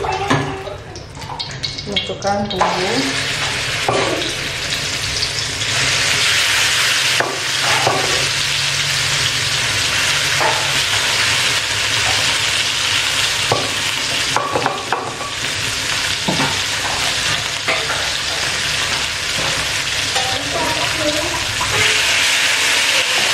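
Red spice paste sizzling as it fries in hot oil in a wok, with a metal spatula stirring and scraping it now and then. The sizzle starts a couple of seconds in and gets louder a few seconds later.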